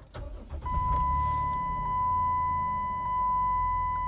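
2008 Chrysler Town & Country's V6 engine cranked by the starter, catching, then idling steadily. A steady high-pitched electronic tone comes in under a second in.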